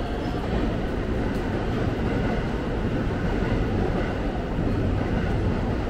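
Steady rumble and rolling noise of a moving train, even in level throughout.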